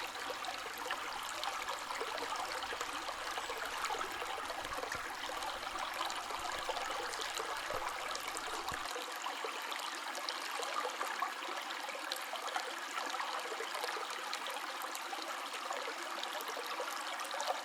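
River water running steadily, a continuous rush with many small splashes and trickles throughout.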